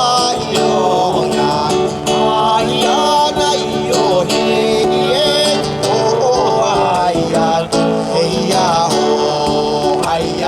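Live music: a singer's voice wavering over a steady instrumental accompaniment, with guitar-like plucked strings.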